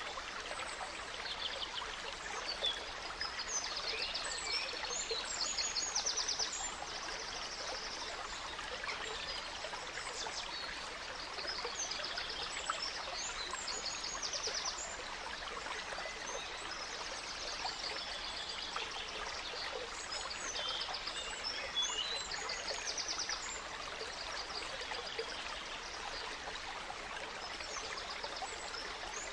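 Gentle stream running steadily, with forest birds singing over it: many short chirps and quick trills through the whole stretch.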